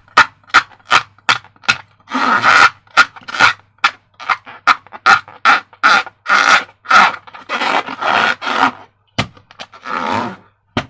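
A balloon being inflated: a fast series of short rushes of air, about two or three a second, with a few longer rushes in between.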